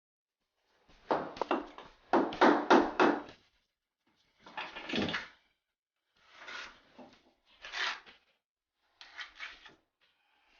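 Bricklaying work: a run of five short scraping, rubbing bursts, as brick and mortar are worked by hand.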